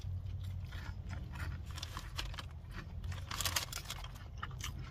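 A person chewing and biting crunchy food, with irregular small crunches and clicks that bunch up about two seconds in and again past three seconds, over a steady low hum.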